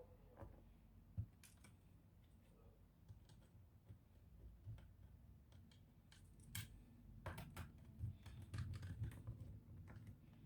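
Quiet, scattered clicks and taps of small plastic and metal laptop parts and tools being handled, with a single low knock about a second in and a busier run of clicks in the second half.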